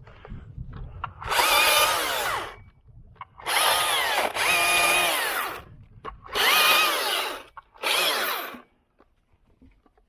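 Chainsaw run in four short bursts about a second or two long, each winding down with a falling whine when the trigger is let go, with quiet in between.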